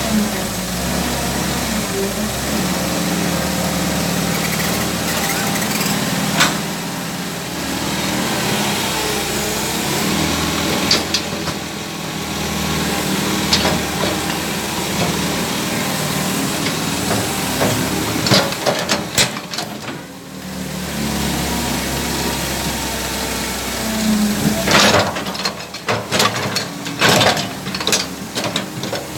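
Excavator's diesel engine running steadily while it digs, with occasional sharp knocks, several of them close together near the end.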